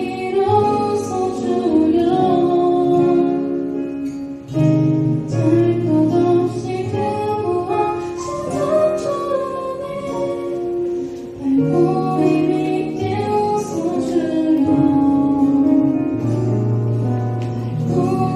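Live band performance: a female voice singing a song over guitar and keyboard accompaniment.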